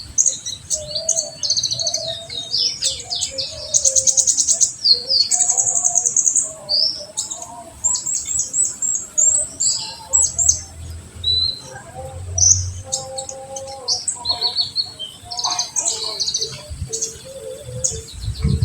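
Olive-backed sunbird (konin, kolibri ninja) singing continuously: fast, high chirps and sweeping notes broken by rapid trilled bursts, with one especially fast trill about four seconds in.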